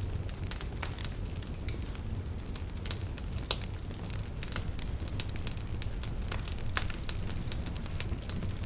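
Campfire burning with a steady low rumble and frequent irregular crackles and pops of the burning wood, one sharper pop about three and a half seconds in.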